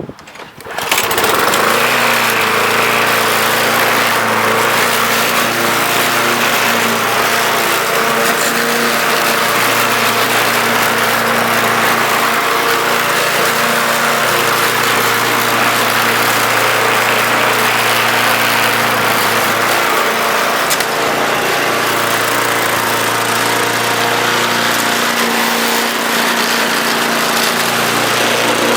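A Bolens lawn mower's 5.5 hp Briggs & Stratton engine comes in about a second in and runs steadily at speed, its governor spring freed after being stuck open.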